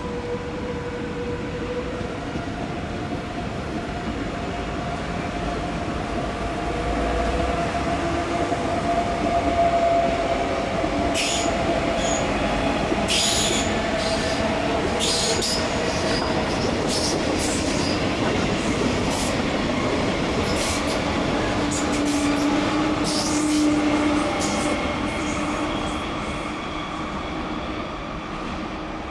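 SBB electric trains running through a station: a double-deck train pulls out with a whining tone over its rumble, and about eleven seconds in a short sequence of high squeals and clicks starts as wheels run over the points and curves, repeating for much of the rest.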